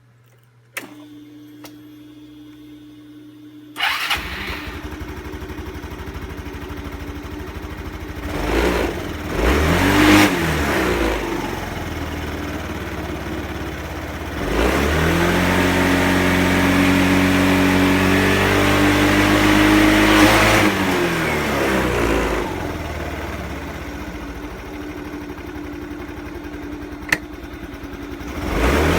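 Yamaha Cygnus X scooter's single-cylinder four-stroke engine. It is switched on with a click and a steady hum, starts about four seconds in and idles. The engine is blipped once, then held at higher revs for about six seconds and drops back to idle.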